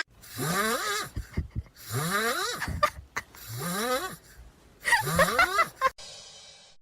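Snoring: four loud, noisy breaths about a second and a half apart, each rising in pitch, then a faint hiss near the end.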